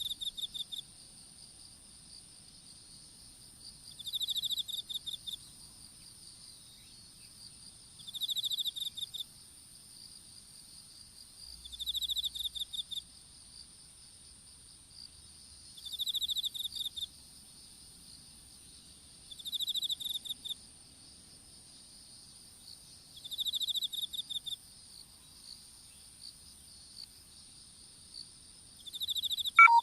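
Crickets and other insects chirping: a steady high trill runs underneath while one insect gives a pulsed chirp about a second long roughly every four seconds. Near the end a brief, loud sound drops quickly in pitch.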